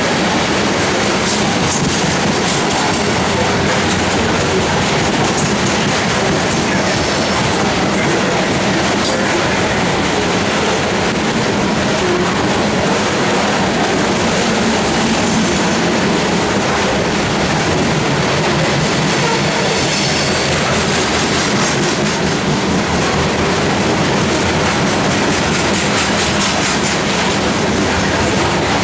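Loaded coal train cars rolling steadily past, steel wheels clacking rhythmically over rail joints with a continuous heavy rumble.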